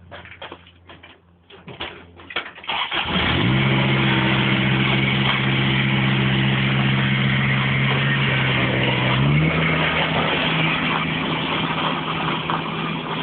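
Tractor engine starting: a few scattered clicks and knocks, then the engine catches about three seconds in and runs steadily. A little after nine seconds its pitch steps up slightly as the revs rise, and it runs on.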